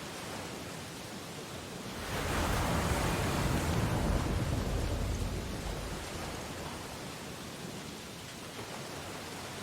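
Ocean waves on a beach: a wave surges in and breaks about two seconds in, swelling into a rush of surf, then washes back and settles to a steady hiss.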